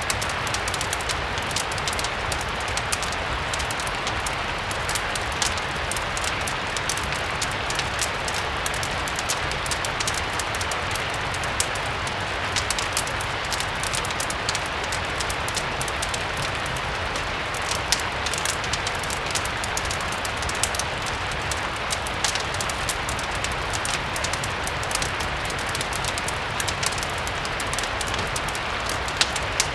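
Steady rain mixed with a crackling wood fire: a constant hiss of rain, with many short, sharp crackles scattered throughout.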